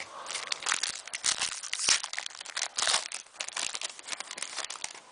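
Crinkling and rustling of a foil hockey-card pack wrapper and the cards inside being handled: a dense run of irregular small crackles and clicks.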